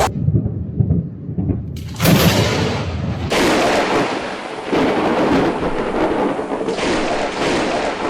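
Thunder from a nearby lightning strike: low rumbling with scattered cracks, then a sudden loud crack about two seconds in, followed by continuous rolling rumble and hiss.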